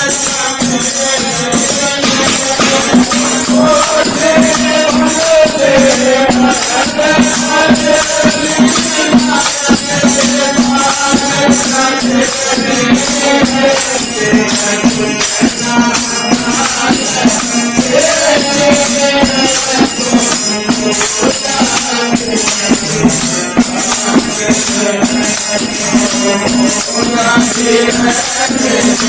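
Devotional bhajan music from a satsang: steady held tones with a melody line over them, and constant jingling, rattling hand percussion.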